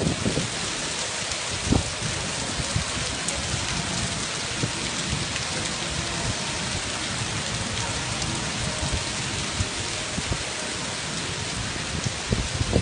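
Heavy rain pouring down, a dense, steady hiss. A few short, low bumps of wind on the microphone break through, one about two seconds in and more near the end.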